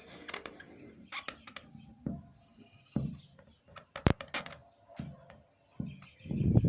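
Scattered short, sharp bird calls with light clicks in between. A loud low rumble comes in near the end.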